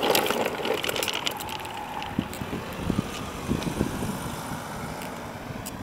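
Child's ride-on toy dump truck rolling along a concrete sidewalk, its wheels rumbling with scattered clicks and knocks over the pavement.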